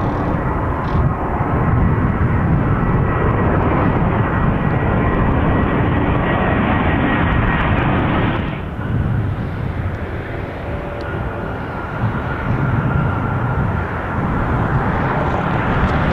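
Airbus A321 jet engines running loud as the airliner comes in to land, a deep rumble with a faint steady whine over it. The sound drops off about halfway through and builds up again near the end.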